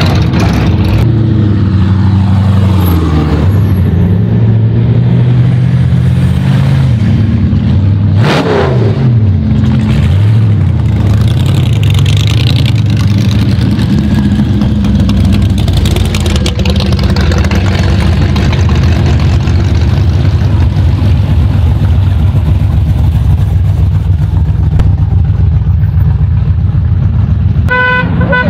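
Hot rods and classic cars driving slowly past one after another, their engines and exhausts rumbling and rising and falling in pitch, with one passing close about eight seconds in.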